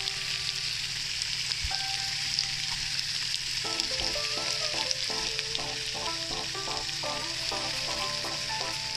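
Skewered beef kebabs frying in mustard oil in a frying pan: a steady sizzling hiss with small crackles. Soft background music comes in about three and a half seconds in.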